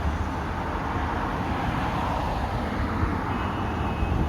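Steady street traffic noise with a low rumble; a faint thin high tone joins about three seconds in.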